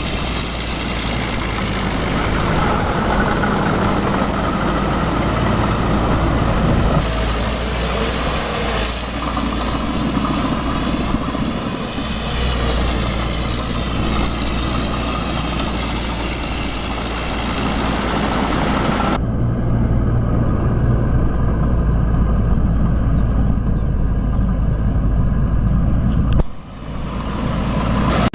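Tractor engine running steadily, with a thin high whine over it that wavers in pitch. The sound changes abruptly about two-thirds of the way through, losing its high end, and again shortly before the end.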